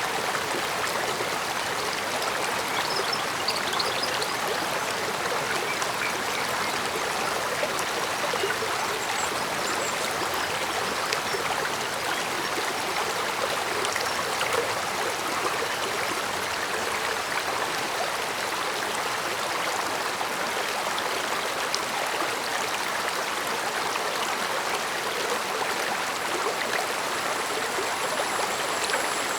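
Shallow stream running over stones: a steady babbling and trickling of water, with small splashes scattered through it.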